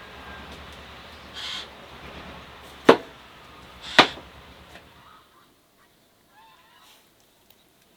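Two sharp knocks about a second apart, over a low steady hum that stops about five seconds in.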